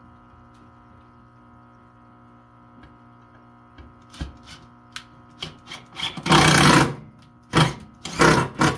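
Power drill driving a screw into a wooden board in two short runs, about six and eight seconds in, after a few light clicks as the screw and drill are handled.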